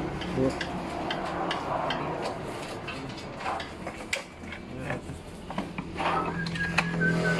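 Scattered light metallic clinks and taps of hand tools and metal parts being handled, with a steady hum coming in about six seconds in.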